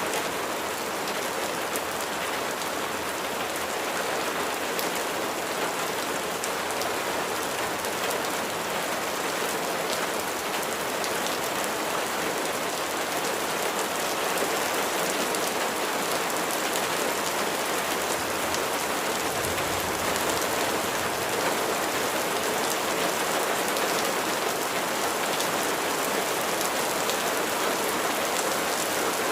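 Steady rain falling on a surface, a dense patter of drops that grows slightly louder about halfway through.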